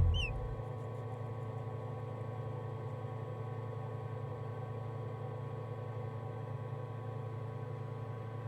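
Steady low machine hum with faint steady higher tones, opened by a single short, high chirp that falls in pitch.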